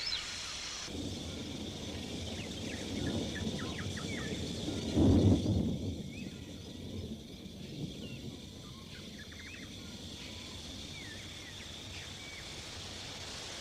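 Tropical rainforest ambience: scattered short bird calls over a steady high insect hum. About five seconds in, a loud low crash or rumble lasts about a second.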